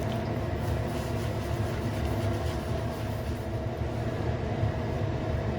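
Steady background rumble with a faint, even hum running under it; no distinct events.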